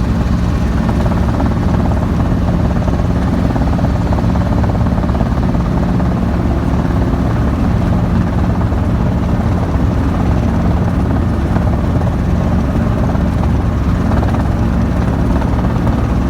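Small training helicopter's engine and rotor running steadily, a loud, even hum.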